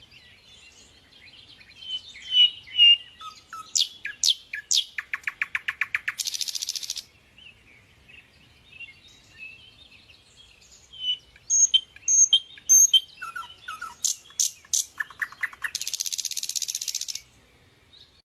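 A songbird singing the same song twice: each phrase a run of quick chirps and falling whistled notes that ends in a fast, rapid trill, over fainter calls of other birds.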